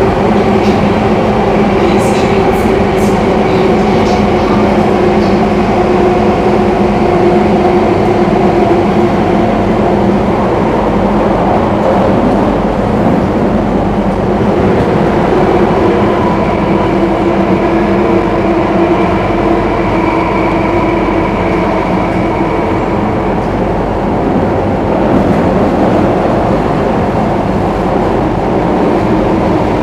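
Singapore MRT train running between stations, heard inside the carriage: a steady, loud running noise with a humming drone and a few light clicks about two to four seconds in.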